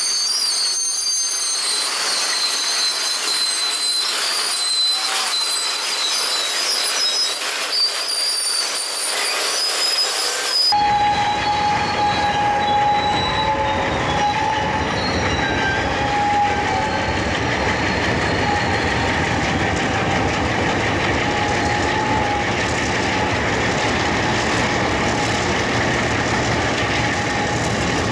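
Freight train moving slowly around a curve, its steel wheels squealing against the rails in high, wavering tones. About ten seconds in the sound changes abruptly to a fuller one: a diesel locomotive's low engine rumble under continued wheel squeal and rail noise.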